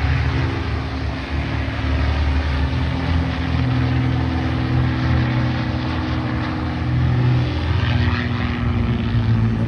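Piston-engine propeller warbird flying over, its engine running in a steady drone with the pitch shifting slightly as it moves.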